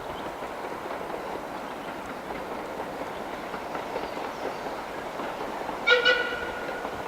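Caledonian Railway 828, an 0-6-0 steam locomotive, running past with its train in a steady rumble, then about six seconds in a short blast of its steam whistle, sounded twice in quick succession with the last note held for about a second.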